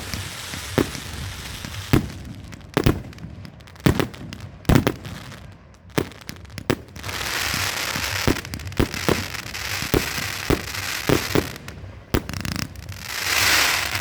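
200-shot consumer firework cake firing: a run of sharp bangs as the shells go off, then from about halfway through a dense crackling from the cake's crackling mines, with further bangs mixed in.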